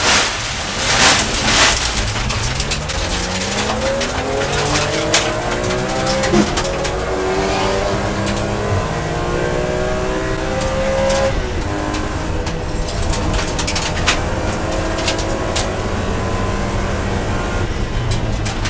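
BMW E46 M3's S54 3.2-litre straight-six racing engine heard from inside the car, pulling hard under full throttle and rising in pitch through the gears to high revs. There are a couple of loud rough bursts in the first two seconds.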